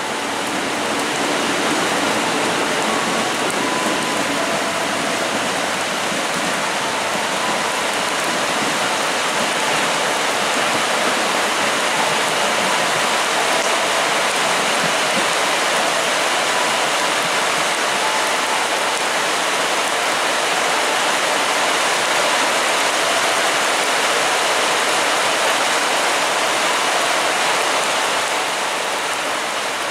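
Heavy tropical rain pouring steadily, a dense even hiss that holds without let-up.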